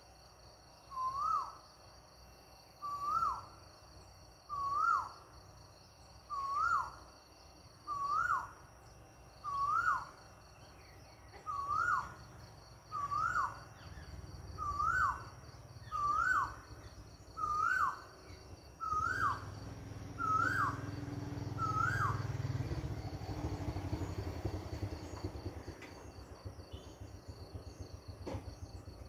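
A bird repeating one short call fourteen times, about every second and a half, then stopping a little after twenty seconds in. Crickets trill steadily behind it, and a low rumble swells near the end of the calling.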